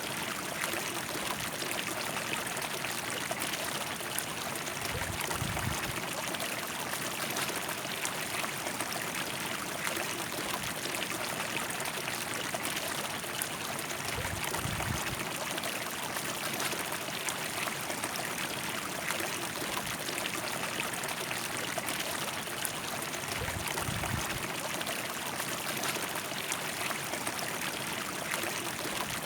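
River water flowing in a steady rush, with no let-up.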